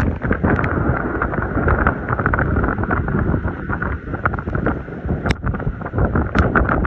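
Wind buffeting the microphone over a steady rush of water, with scattered sharp crackles.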